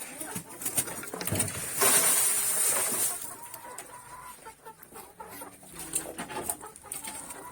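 Chickens clucking as they are fed, with many small clicks throughout. About two seconds in there is a louder rush of noise lasting about a second.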